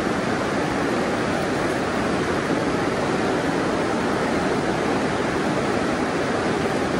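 Steady rush of flowing creek water, an even noise with no breaks.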